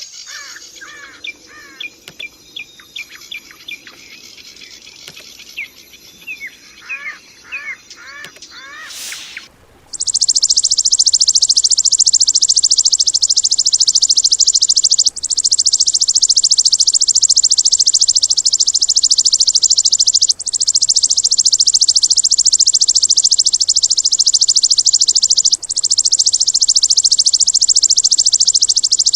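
Recorded songbird song used as training material: first a series of sharp chirps and quick slurred whistles, then, about ten seconds in, a loud, very rapid high buzzing trill that runs in long phrases of about five seconds, each broken by a brief pause.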